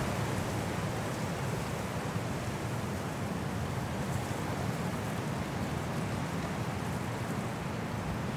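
High wind blowing through trees in a snowstorm: a continuous rushing noise, heaviest and gustiest in the low range, easing slightly after about a second.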